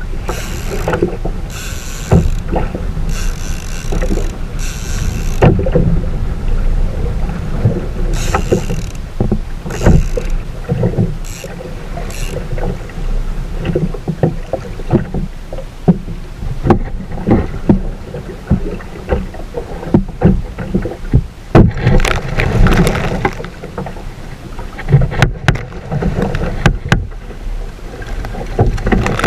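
Water slapping and splashing against a kayak hull on choppy sea, with wind buffeting the microphone and irregular knocks.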